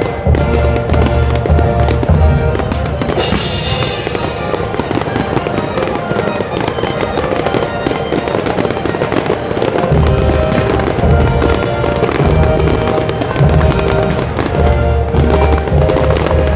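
Fireworks going off, with many sharp bangs and crackles and a burst of high crackling about three seconds in, heard over music with a heavy bass.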